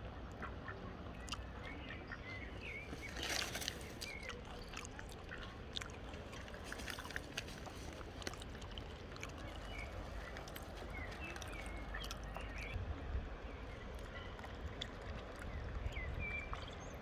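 River water lapping and sloshing at the bank, with faint scattered bird calls and a few brief splashes.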